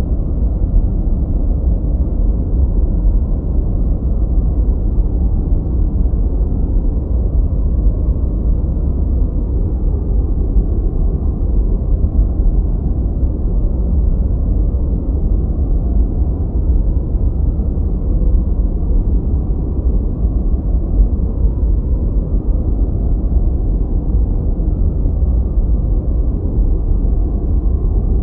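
Continuous generated masking noise, a steady deep rumbling hiss with almost nothing in the high end, closer to brown noise than bright white noise. It holds an even level without any change.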